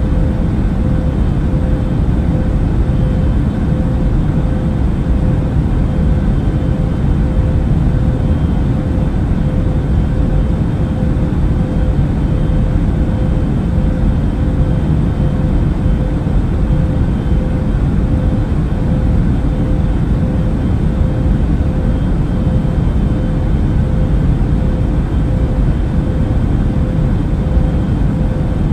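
Airliner cabin noise in flight: an even, deep rush of engine and air noise that does not change, with a steady hum above it.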